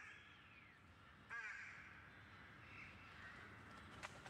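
Faint bird calls, twice: one at the start and one about a second and a half in, over a faint background hush, with a single sharp click near the end.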